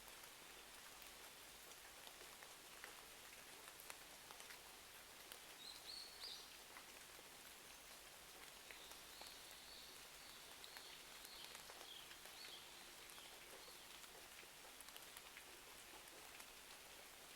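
Faint steady rain hiss dotted with small clicks and soft fireplace crackles. Faint high chirps come in about six seconds in and again from about nine to thirteen seconds.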